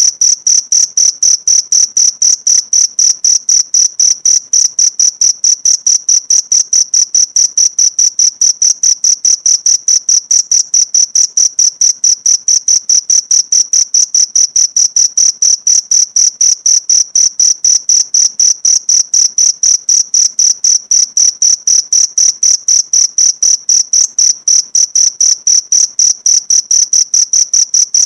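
Cricket chirping, a steady, even train of high-pitched pulses at about five a second that does not change.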